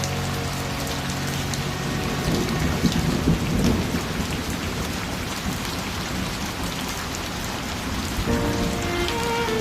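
Steady rain falling, with a low rumble of thunder swelling about two to four seconds in. Held instrumental notes die away at the start and new notes come in near the end.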